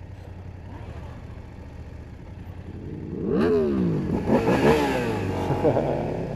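Motorcycle engine revving up through several gear changes, the pitch climbing and dropping back repeatedly, loud from about three seconds in over a steady low engine hum.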